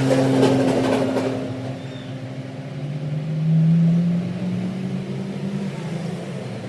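An engine running, its pitch stepping up for a stretch in the middle as it revs, then settling back.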